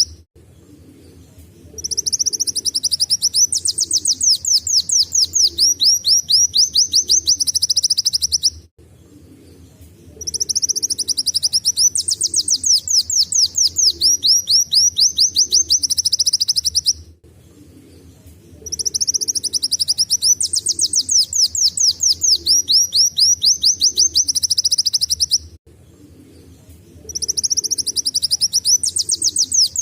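A kolibri wulung sunbird singing canary-like song in long bursts of rapid, high trills and quick repeated notes. The phrases last about six seconds each, with short pauses of a second or two between them.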